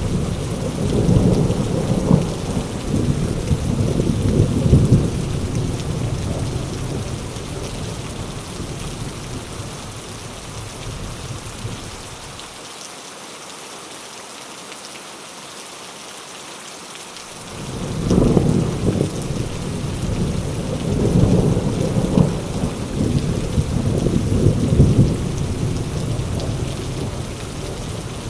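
Heavy rain falling steadily, with rolling thunder: a long rumble that fades out over the first dozen seconds, a few seconds of rain alone, then a second rumble breaking in a little after halfway and slowly dying away.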